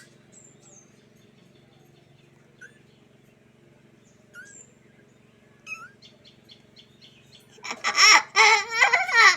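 Kitten mewing: a few faint, short squeaks at first, then loud, wavering, repeated mews in the last second and a half.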